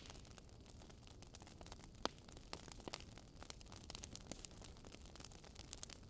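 Wood fire crackling in a fireplace: scattered small snaps and pops over a low steady hiss, with a sharper pop about two seconds in.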